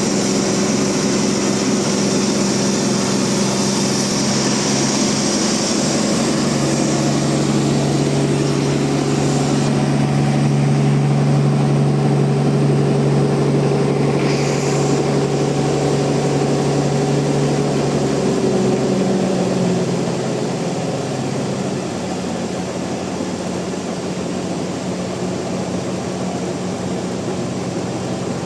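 Band sawmill running with a steady machine hum. About twenty seconds in, its pitch drops and it gets a little quieter.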